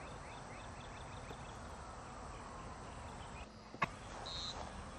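Faint outdoor ambience with a quick run of short, high chirps over the first couple of seconds, a sharp click just before four seconds in, and one more short high chirp after it.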